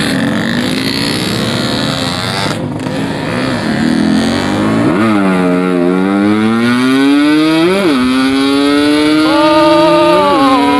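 Yamaha RX-King's 135cc two-stroke single-cylinder engine pulling under way, its revs climbing through the gears, with a sharp drop in pitch at an upshift about eight seconds in and another near ten.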